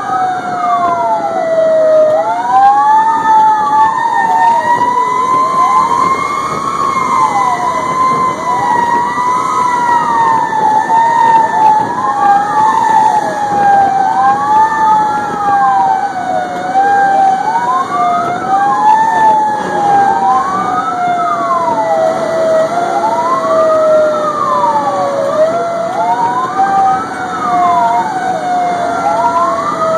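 Fire engine sirens sounding while the truck responds to a call. Two siren tones overlap: one slowly rises and falls, and a wail sweeps up and down about every two to three seconds.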